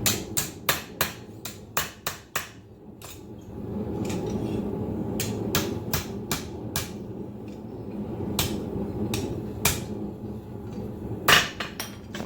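Blacksmith's hammer striking hot steel on an anvil: a quick run of about eight blows in the first couple of seconds, then scattered single blows, the loudest near the end, over a steady background roar.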